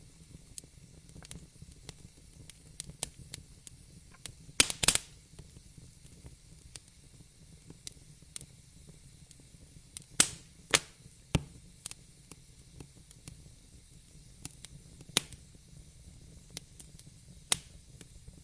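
Wood fire in a fireplace crackling: irregular sharp pops and snaps over a low steady rumble, with a loud cluster of pops about five seconds in and several more strong pops later on.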